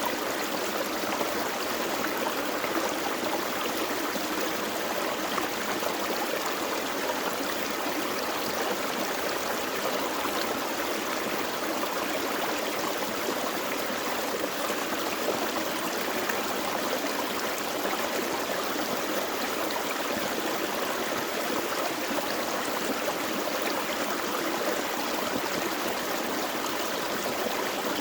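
A gentle forest creek running over stones, a steady trickling and gurgling rush of water.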